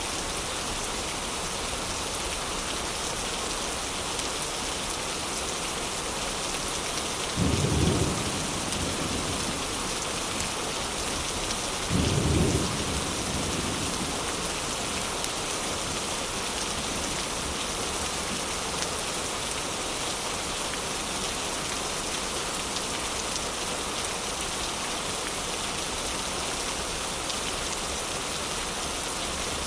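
Steady heavy rain, with two brief low rumbles about four and a half seconds apart near the middle, each louder than the rain for under a second.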